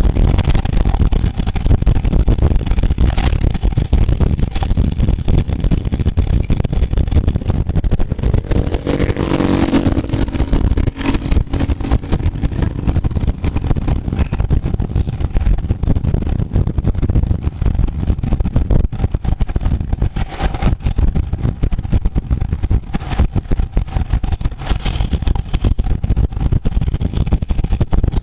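Heavy, steady wind rumble on the microphone, as from a camera moving at speed on the road. A motor vehicle's engine passes about nine to ten seconds in.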